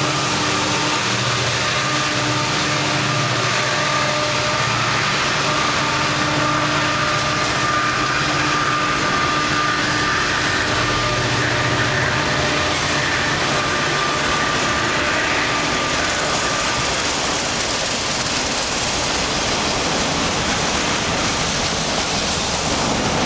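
Freight train of autorack cars rolling past close by at speed: a loud, steady rush of steel wheels on rail. A few steady whining tones ride over it and die away about two-thirds of the way through.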